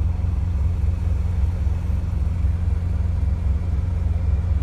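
Semi truck's diesel engine idling: a steady low rumble with an even pulse.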